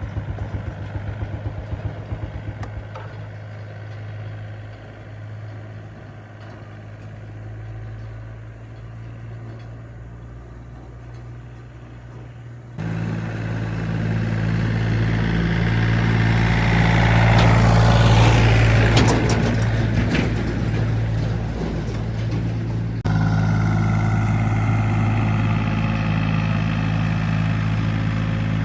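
A vehicle engine running steadily, first at a quieter idle with a fast even beat, then abruptly louder about halfway through, with a noisier swell and some clatter in the middle of the louder stretch.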